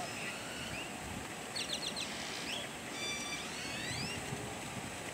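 Birds chirping and whistling over steady outdoor background noise: a quick run of high chirps about one and a half seconds in, then several rising whistles a second or so later.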